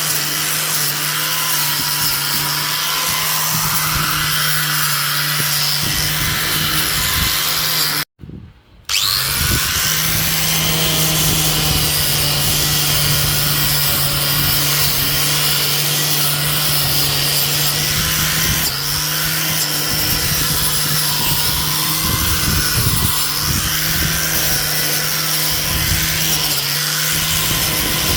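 A power tool running steadily with a constant hum and a rough rasping noise, cut off for about a second around eight seconds in, then running on.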